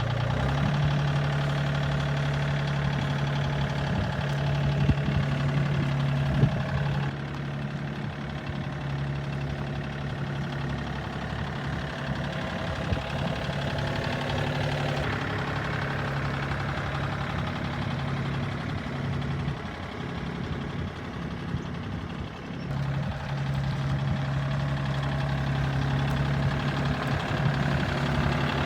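Tractor engine idling steadily, its low hum dropping away for a few seconds about two-thirds of the way through. A couple of sharp knocks sound early on top of it.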